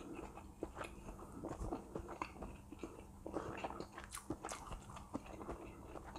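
Faint, close-up chewing of a mouthful of chewy shrimp-and-chicken siomay with peanut sauce, mouth closed: a run of small, irregular mouth clicks.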